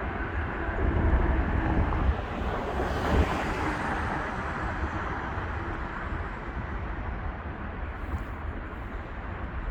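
Road traffic on a bridge: a steady rumble of passing vehicles, swelling louder as a vehicle goes by about one to three seconds in.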